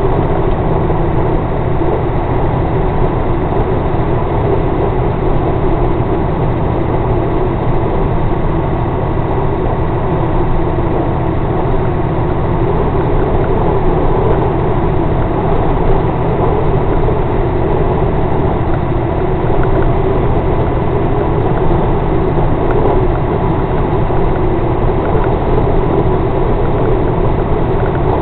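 Scania torpedo truck's engine running steadily, a constant low drone with no change in pitch or level.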